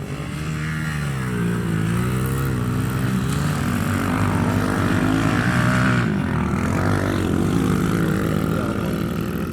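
Dirt bike engine running, its pitch rising and falling as the throttle is worked on and off.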